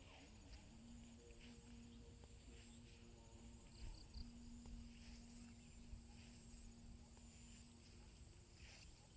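Faint countryside insects, crickets among them, shrilling steadily at a high pitch, with a few short chirps. A faint low hum runs under them from about a second in until near the end.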